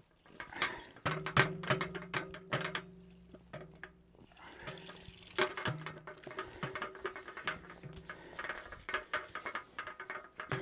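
Snow being knocked and brushed off bird feeders: a run of sharp taps and knocks with scraping between them, over a low steady hum that comes and goes.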